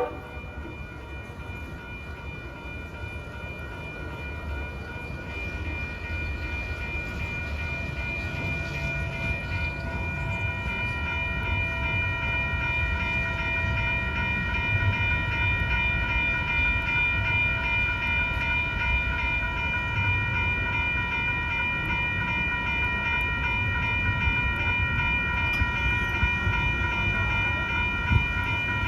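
Grade crossing warning bell ringing on and on, while a train rumbles past, the rumble building over the first dozen seconds. A single sharp clank sounds near the end.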